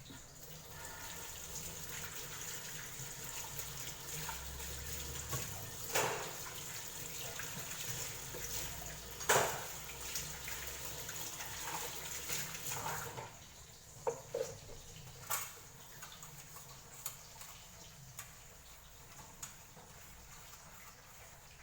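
Tap water running into a sink, with a few clinks and clatters of things being handled; the water stops about two-thirds of the way through, leaving scattered clicks and knocks.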